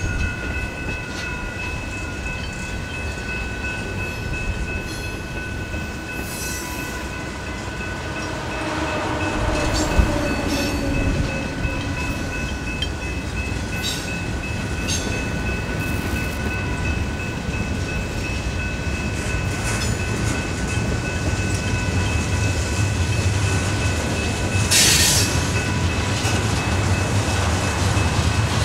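Freight cars of a mixed freight train (tank cars and a covered hopper) rolling past, wheels rumbling and clicking on the rails, with steady high-pitched wheel squeal. A sharp knock comes about ten seconds in, and a brief hiss near the end.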